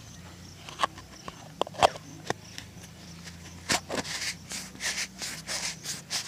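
Shoe being worked on during a shoe shine: a few sharp taps, then quick, hissy brush strokes on the leather, about two or three a second, in the second half.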